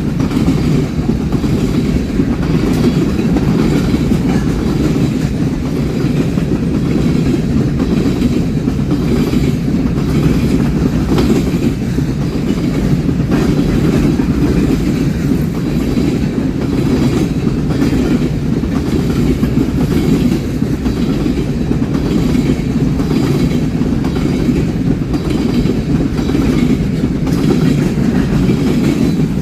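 Railroad cars rolling past in a steady rumble, their wheels clicking over the rail joints.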